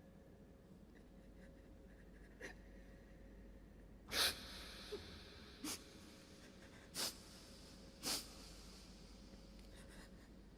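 A man weeping: four short, sharp sniffs or sobbing breaths over a few seconds, the first the loudest, against faint room noise.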